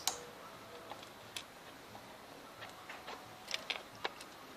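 Small plastic Lego pieces clicking as they are handled and pressed into place: a few sharp, scattered clicks, with a quick cluster of them near the end.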